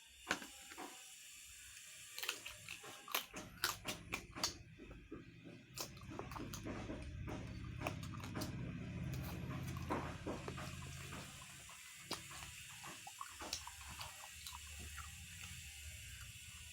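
Close-up eating sounds: a person chewing and crunching pigeon curry and rice. A run of sharp clicks and crunches fills the first six seconds, then softer chewing continues over a low hum.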